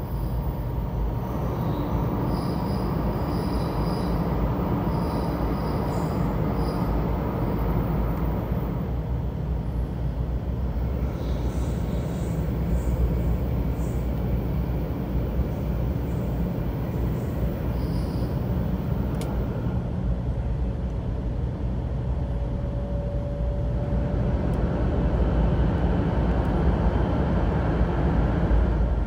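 Shinkansen train heard from inside a passenger car at speed: a steady low rumble of wheels on rail and rushing air, growing louder near the end.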